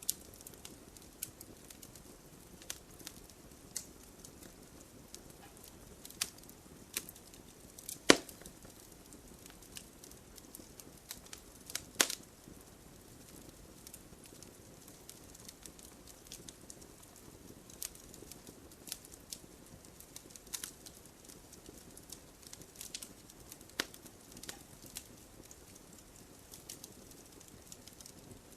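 Wood fire burning in an open fireplace: a low steady hiss with irregular crackles and sharp pops, the loudest pops about 8 and 12 seconds in.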